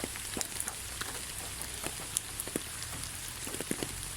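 Steady hiss of falling rain, with many small, irregular drop ticks throughout.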